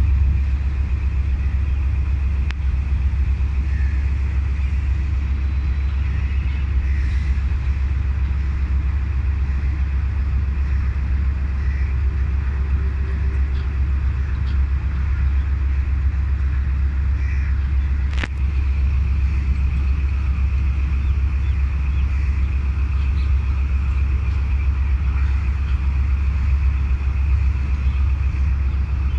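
Diesel-electric locomotive engine running steadily with a deep, even rumble and a faint steady higher hum. A single sharp click about eighteen seconds in.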